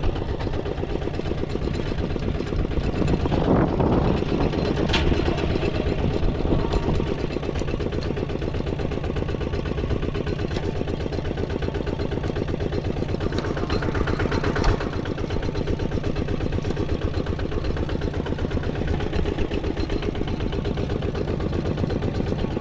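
An engine running steadily with a rapid, even pulse, swelling a little a few seconds in.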